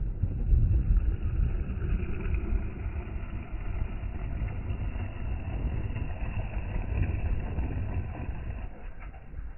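Dirt bike engine running, with heavy wind rumble on the microphone; it fades a little near the end.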